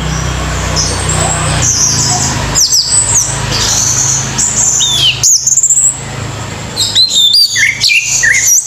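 Orange-headed thrush singing: short, varied whistled phrases of quick sliding and looping notes, busiest near the end. A low steady hum sits underneath for about the first two seconds.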